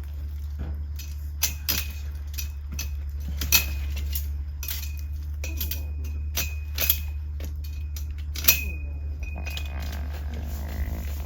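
Irregular sharp metallic clinks, each with a short bright ring, over a steady low hum.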